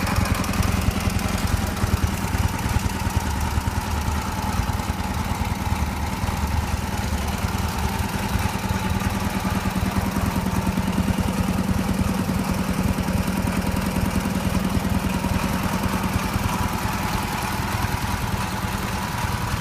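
Ural IMZ-8.103-10 motorcycle's air-cooled flat-twin engine running steadily, with an even, rapid beat of firing pulses.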